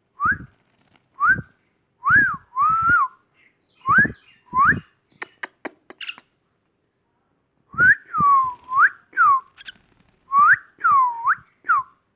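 Clear whistled notes: a string of short upward-sliding whistles, then a few sharp clicks about five seconds in, then after a pause a run of longer swooping whistles that dip and rise again.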